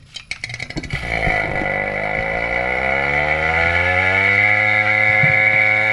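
Small refrigeration vacuum pump switched on about a second in after a few clicks. Its motor spins up with a rising hum and settles into a steady drone with a high whine as it starts evacuating the refrigerator's sealed system.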